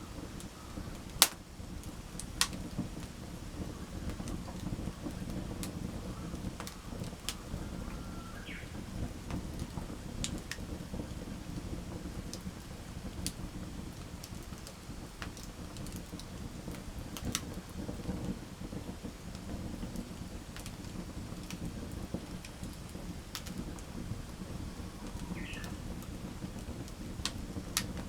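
Wood campfire crackling: sharp, irregular pops over a steady low rumble of the flames, with one loud pop about a second in.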